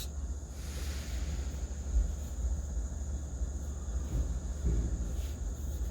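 Steady low rumble of an idling semi-truck, heard from inside the cab, with a faint steady high whine over it and a low thump about two seconds in.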